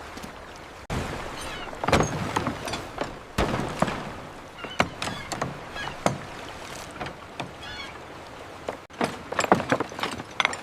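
Construction ambience: irregular knocks and thuds of work on a building, over a steady wash of background noise, with a few short wavering high calls mixed in.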